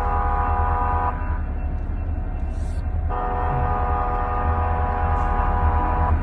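Train horn sounding a multi-note chord in long blasts over a steady low rumble: one blast cuts off about a second in, and another runs from about three seconds in until just before the end.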